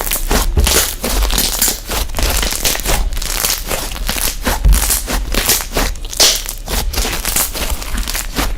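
Slime being squeezed and pressed by hand: a dense, continuous run of crackles and pops.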